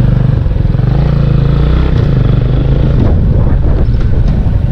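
Motorcycle engine running while the bike is ridden, its pitch shifting a little about a second or two in.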